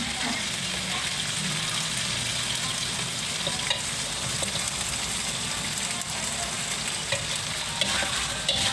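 Beef liver and spleen frying in oil in a wok with a steady sizzle. A metal spatula scrapes and clicks against the wok as sliced shallots are stirred in.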